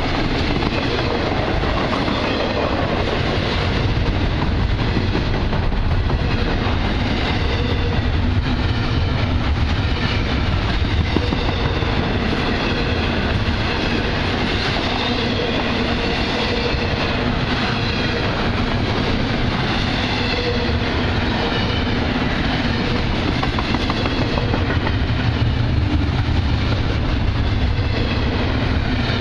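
BNSF freight train rolling through the station, a steady, loud rumble of steel wheels on the rails with faint wavering high-pitched tones above it.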